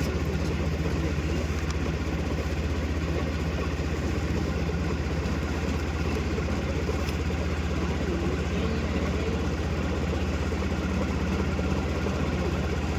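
A heavy engine running steadily at idle, a constant low hum that does not change.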